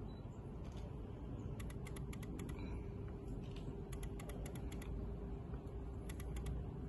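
Faint low rumble with a steady hum from a distant approaching train, broken three times by short clusters of rapid ticking.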